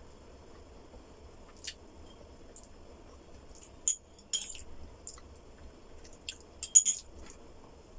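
Close-miked chewing of a mouthful of food, with scattered short mouth clicks and smacks. The loudest cluster comes near the end.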